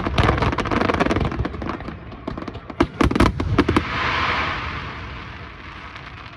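Aerial fireworks bursting in quick volleys of sharp bangs, twice, then a dense hiss that slowly fades after the last volley.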